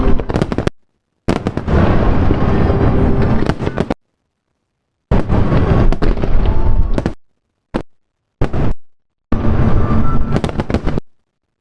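Fireworks display: loud, dense bangs and crackling of aerial shells. The sound comes in stretches of one to three seconds and drops abruptly to dead silence several times.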